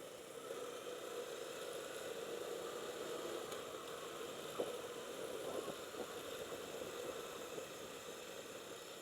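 Steady motorcycle engine and road noise, with a few faint clicks about halfway through.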